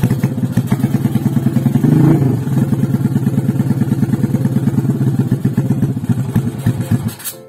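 Single-cylinder four-stroke engine of a 239cc two-valve Honda XRM underbone motorcycle running just after its crankshaft repair, a fast, even pulse with a brief rise in revs about two seconds in. It cuts off suddenly near the end.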